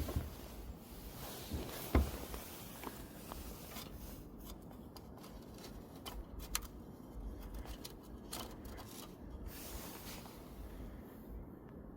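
Small objects being handled: scattered light clicks, scrapes and rustles, with a sharper knock about two seconds in.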